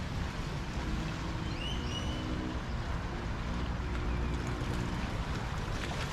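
Harbor shore ambience: a steady wash of wind and water, with the faint hum of a distant boat motor through the middle few seconds and a brief high chirp about a second and a half in.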